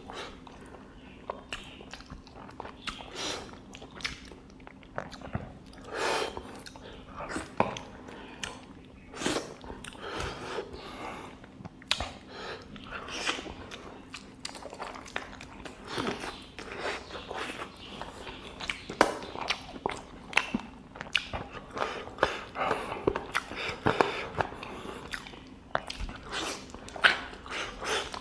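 Close-miked eating sounds of a person biting and chewing meat off a curry-coated chicken leg, a steady run of irregular bites, chews and mouth sounds.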